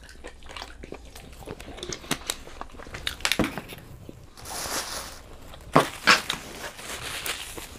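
Close-up eating sounds: crisp bites and chewing of fried chicken and waffle, with a short rustling hiss about halfway and the two sharpest crunches near six seconds in.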